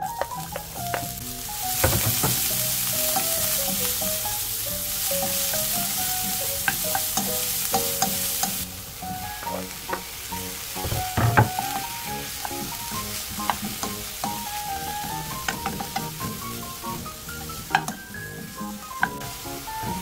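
Sliced green onions sizzling in hot sunflower oil in a frying pan while a wooden spatula stirs and knocks against the pan. The sizzle is loud from about two seconds in and drops after about eight seconds. Sliced bacon is then stirred in, with a cluster of knocks about eleven seconds in.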